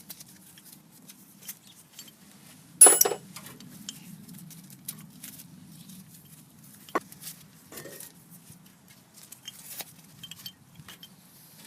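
Metal tools and brake parts clinking as a brake hose is unscrewed from a loose brake caliper with an open-end wrench. The sound is a string of small, irregular clicks and ticks, with one loud, ringing metallic clink about three seconds in.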